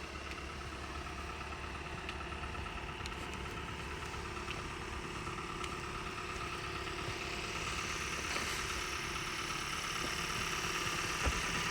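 Engine idling steadily, with a constant hum that grows slightly louder toward the end.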